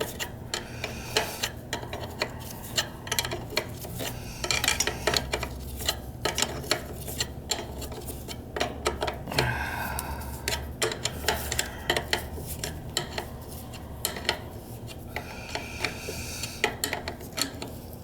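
Irregular metal clinks, taps and scraping of hand tools and fittings as an oil burner's parts are put back together, over a steady low hum.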